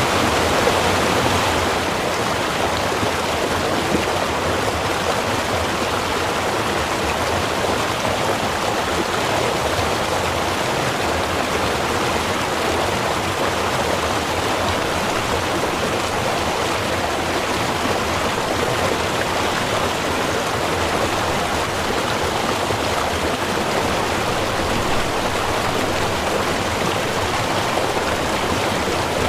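A small river's running water: a steady, continuous rush, a little louder for the first second or two.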